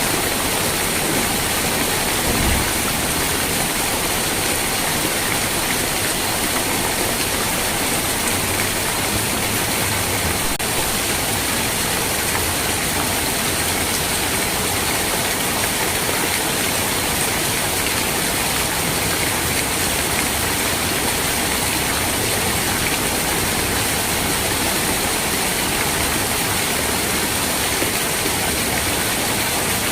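Steady, even rain hiss. There is a brief low thump about two and a half seconds in.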